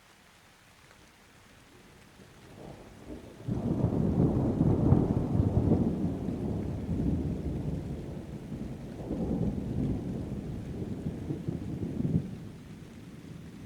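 Thunder over falling rain. A low rumble builds, breaks loudly about three and a half seconds in, and rolls on in several swells before dying away near the end.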